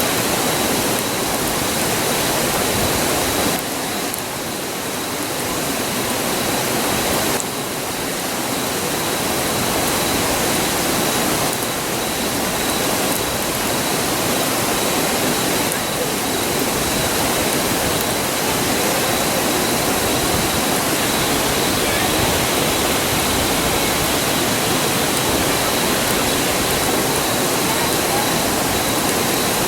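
A river rushing in a steady, loud roar of water, with a faint steady high-pitched tone running through it.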